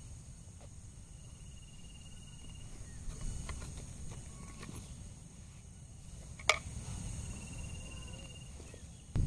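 Forest insects: a steady faint high-pitched buzz under two short pulsed trills, one early and one late. A low rumble runs underneath, and there is a single sharp click a little past the middle.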